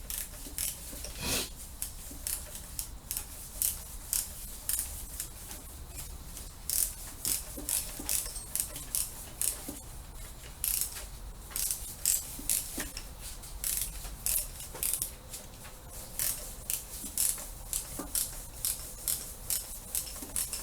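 Socket ratchet wrench clicking in repeated runs of quick strokes, backing out the bolts that hold the engine's cylinder down.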